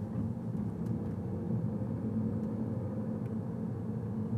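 Vehicle engine running steadily while driving slowly, a low even hum with road rumble.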